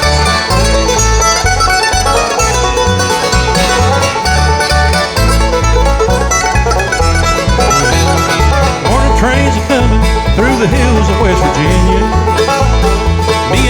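Live bluegrass band playing an instrumental introduction: banjo and guitar over an alternating bass beat, with a fiddle or other lead line sliding on top.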